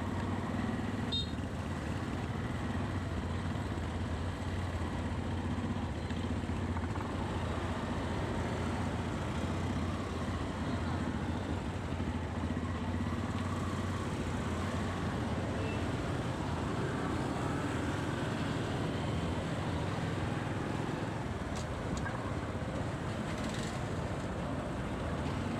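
Motorcycle running at a steady cruise, its engine hum mixed with wind and road noise in city traffic.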